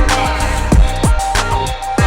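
Electronic music: a whistle-like synth lead holds tones over a beat of drum hits and bass notes that drop sharply in pitch.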